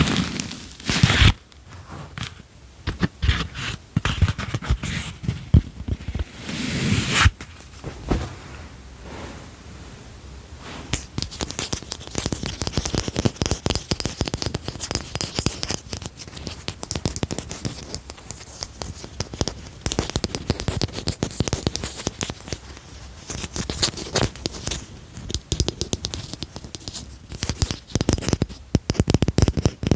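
Rapid, dense tapping and scratching on a handheld object, with a crinkly, crackling texture. A few louder handling bursts come in the first several seconds, then the quick tapping runs on steadily.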